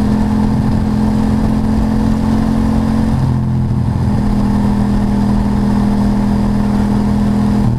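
Ducati motorcycle engine running at a steady cruise, with wind and tyre noise on a wet road; the engine note shifts slightly about three seconds in and again near the end.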